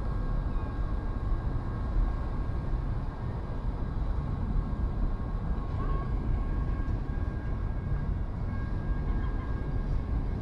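Freight train of double-stacked containers rolling past: a steady low rumble, with faint thin steady tones above it.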